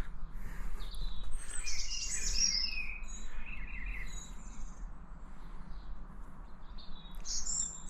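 Small birds chirping and singing in short warbling phrases, busiest in the first half and again near the end, over a steady low background rumble.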